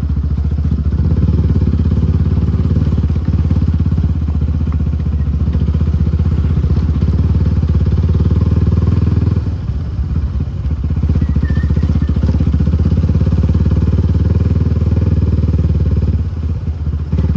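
Suzuki Gixxer SF250's single-cylinder engine running through an aftermarket Akrapovic exhaust while riding at a steady pace. It eases off briefly about halfway through and again near the end.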